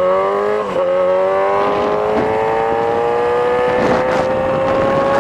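Yamaha R6 inline-four sport bike with a loud aftermarket exhaust accelerating through the gears: quick upshifts right at the start and again under a second in, then the engine note climbs slowly and steadily in the higher gear over rushing wind.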